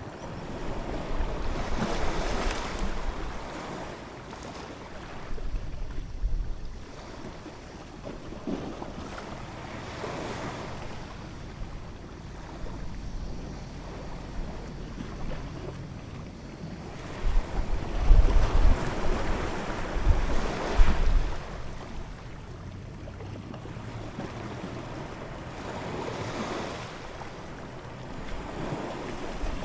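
Ocean waves breaking and washing in, in surges every few seconds; the biggest comes about two-thirds of the way through, with a deep rumble underneath.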